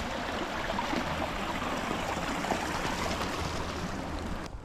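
Steady rushing of flowing stream water, an even hiss, which cuts off abruptly near the end.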